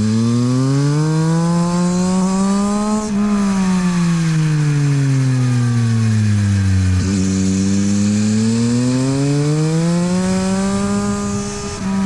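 Yamaha MT-09 SP's 890 cc three-cylinder engine through a LeoVince exhaust, ridden on track. Its pitch rises for about three seconds under acceleration, falls steadily for about four seconds as it slows, then rises again, with a brief dip near the end.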